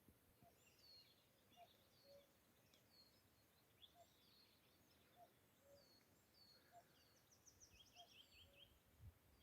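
Faint birdsong across open hill country: scattered short chirps and rapid trills from several small birds, with a few soft, lower notes repeating about once a second.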